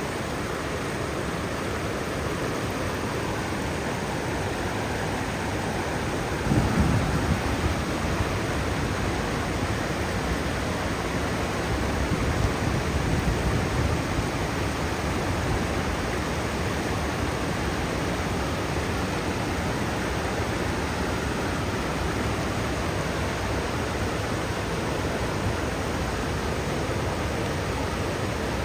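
Waterfall and river rapids giving a steady, dense rush of water, with low rumbles standing out around seven and again around thirteen seconds in.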